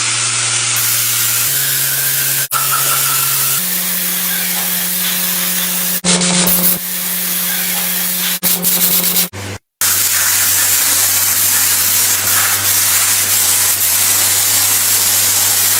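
Loud, steady spraying hiss over a constant motor hum, in several short clips joined by hard cuts where the hum shifts pitch.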